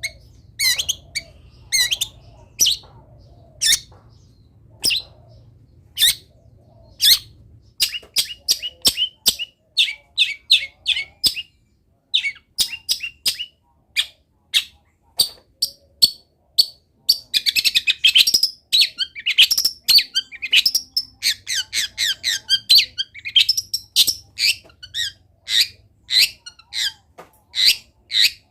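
Long-tailed shrike singing a rapid string of short, sharp chirps and trills, its song packed with mimicked calls of wild birds. The notes come thickest and almost without pause for a few seconds past the middle.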